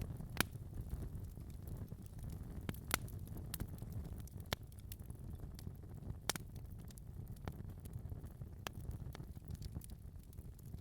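Fireplace fire crackling: a steady low rumble of the flames with irregular sharp pops and snaps, the strongest about half a second, three seconds and six seconds in.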